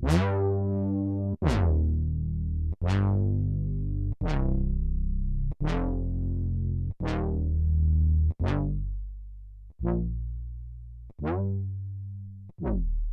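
Synth notes from a Novation Circuit Tracks groovebox, one bright stab about every one and a half seconds, each decaying over a sustained bass tone. The stabs grow shorter and quieter in the last few seconds as the jam fades out.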